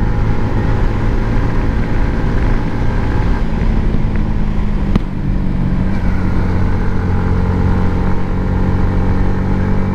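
Motorcycle engine running steadily while riding along a road. About five seconds in there is a brief click and the engine note shifts pitch.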